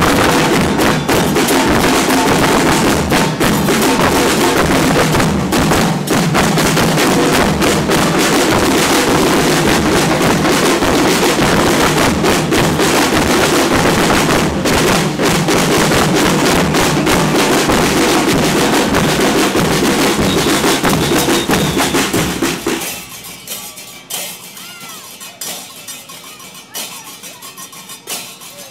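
Carnival drum group playing loud, dense percussion with bass drums and snare drums. The drumming stops about 23 seconds in, leaving only quieter background sound.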